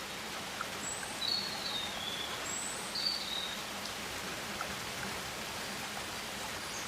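Rainforest ambience: a steady hiss of rain, with short high bird chirps about one second and three seconds in.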